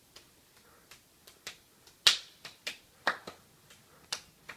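A series of sharp hand claps, about a dozen in irregular rhythm, some soft and some loud, the loudest about two seconds in.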